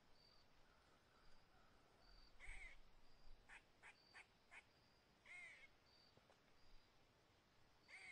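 Faint woodland birds. Three rising-and-falling calls come a few seconds apart, with a quick run of short calls in the middle and a thin high peep repeating throughout.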